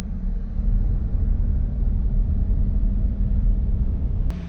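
Car driving along, with a steady low rumble of engine and road noise that fades out near the end.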